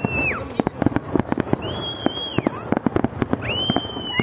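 Fireworks going off: an irregular rapid string of sharp bangs and crackles. Two high shrill whistles rise and fall over it, one about two seconds in and another near the end.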